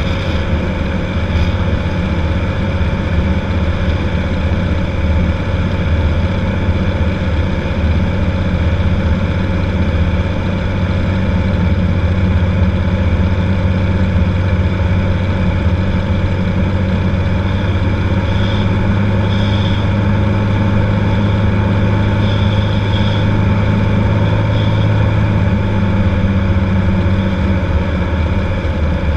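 Cessna 182's piston engine and propeller running at a steady, unchanging drone.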